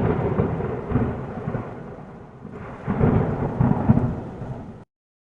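Thunder rolling in a storm: a loud low rumble that fades, swells again about three seconds in with sharp cracks, then cuts off abruptly near the end.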